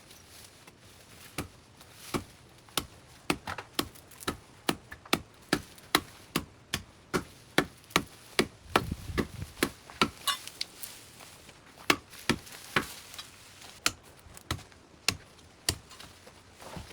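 Hand tool chopping through overgrown vegetation: a long run of sharp, separate strikes, roughly two a second, starting about a second and a half in and going on until near the end.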